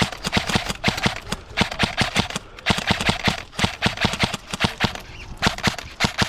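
Running footsteps on a dirt field: quick, even footfalls, about four a second.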